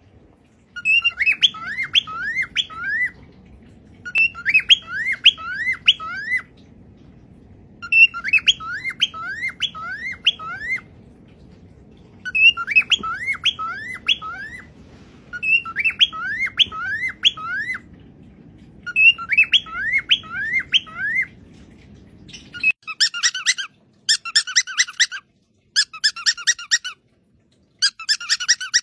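A parrot calling in bouts of four or five quick rising whistled notes, repeated every three to four seconds over a low steady hum. About 23 seconds in the hum stops and a faster run of rapidly repeated, chattering calls takes over.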